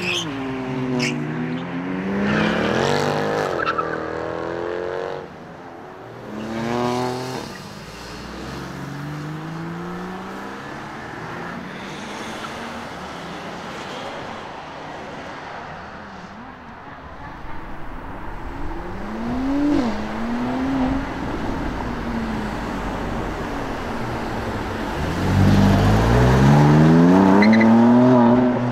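Sports cars accelerating hard away one after another, engines revving up through the gears in rising sweeps that drop back at each shift, with some tyre squeal. The loudest pull comes near the end, from a BMW M2.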